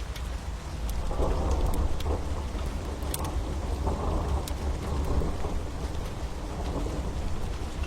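Steady rain with a low rolling rumble of thunder that swells about a second in and carries on, with scattered sharp crackles from a wood fire.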